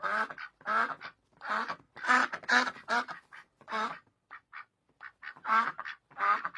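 Duck quacking over and over in short, harsh calls separated by brief pauses, with a few fainter, clipped quacks partway through.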